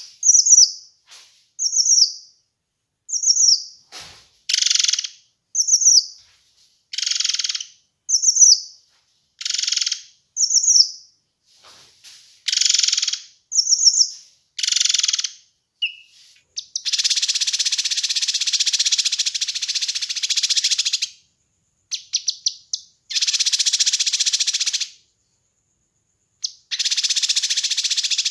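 Kinoi bird calling: a run of sharp, high chirps that slide downward, about one a second, alternating with short harsh buzzy notes, then from about halfway, long harsh rattling trills lasting a few seconds each.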